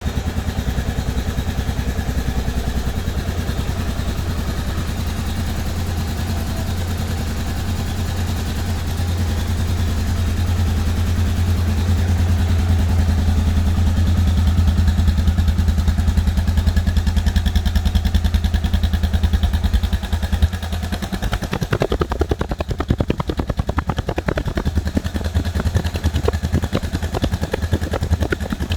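Suzuki DR650's single-cylinder four-stroke engine running steadily. Its note grows a little louder between about nine and fifteen seconds in, and about twenty-one seconds in the steady low hum gives way to a choppier, pulsing beat.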